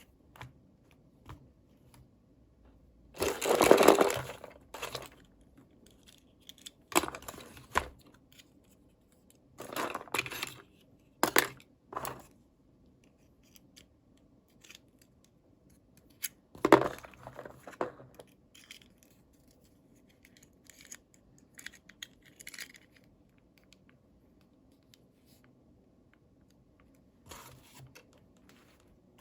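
Toy packaging being torn and crinkled open in short, separate bursts with quiet pauses between; the loudest and longest tear comes a few seconds in.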